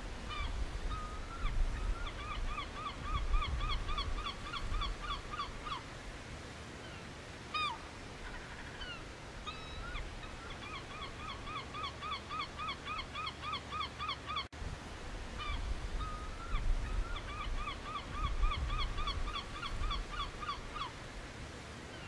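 A bird calling in long, rapid series of short, clipped notes, about three or four a second, with a few pauses between the series. A steady low rumble runs underneath.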